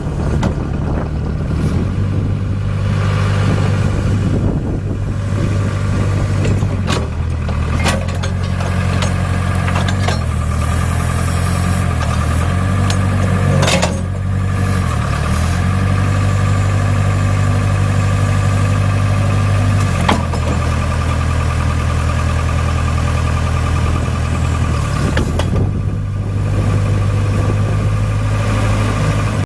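Case 580 Super K backhoe loader's diesel engine running, its speed shifting up and down several times, with a few sharp knocks.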